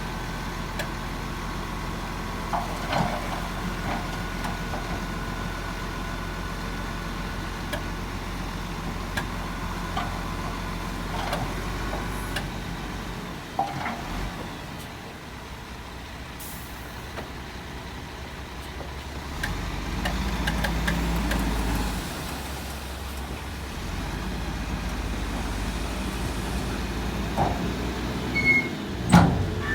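Heavy diesel earthmoving machinery running steadily, with scattered metallic clanks and knocks. The engine rises for a couple of seconds about two-thirds of the way through.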